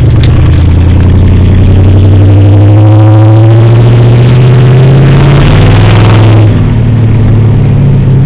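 Loud 1996 Dodge Ram pickup with straight-piped exhaust accelerating, its engine note rising over a couple of seconds. It drops back suddenly about six and a half seconds in, as the throttle is lifted.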